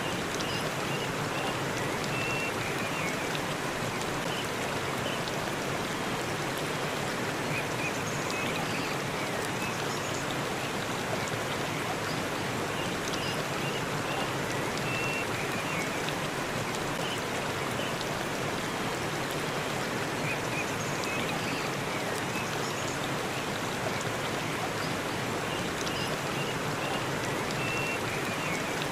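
Waterfall in a forest: a steady, even rush of falling water, with faint short high tones now and then.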